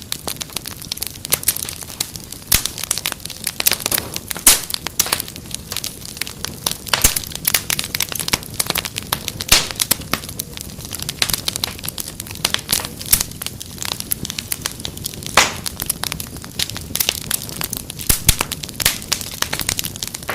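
Fire crackling in a fireplace: a dense, irregular run of sharp snaps and pops over a steady low rumble.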